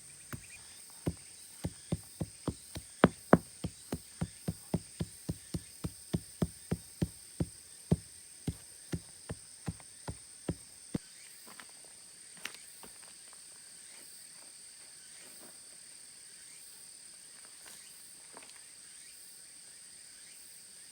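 A series of sharp knocks or taps, about two to three a second, growing louder and then fading out after about ten seconds. Under them runs a steady high-pitched drone of insects.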